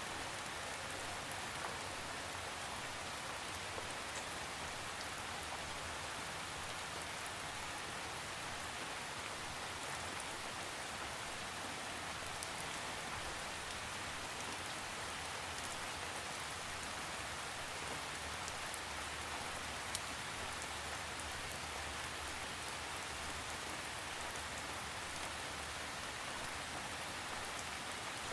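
Steady rain falling on a surface, an even hiss with scattered faint drop ticks and no thunder.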